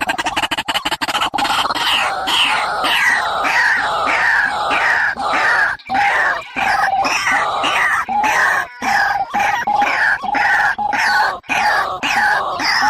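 Barred rail (tikling) calls played as a lure recording: a harsh call repeated about two to three times a second, each note sliding downward, with a few brief breaks.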